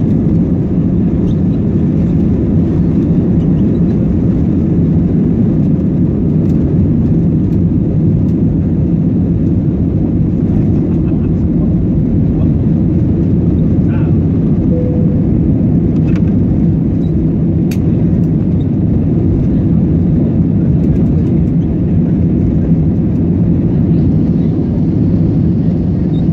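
Airbus A320 passenger cabin noise at a window seat: a steady, loud, low drone of the jet engines and rushing air, unchanging throughout.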